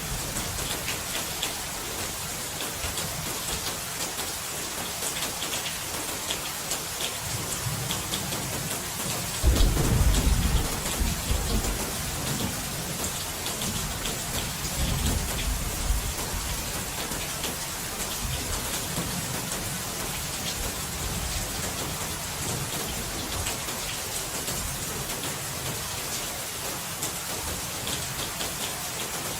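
Steady rain hissing, with a sudden clap of thunder about a third of the way in that rumbles low for several seconds before dying away.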